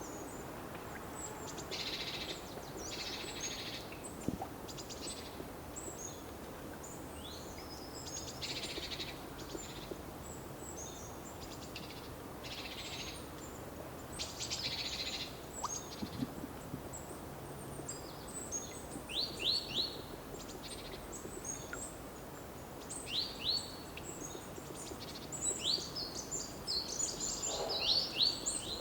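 Several small songbirds singing and calling over a steady low background hiss. There are many short chirps, and the birds get busier in the second half, with quick falling notes in runs of two or three.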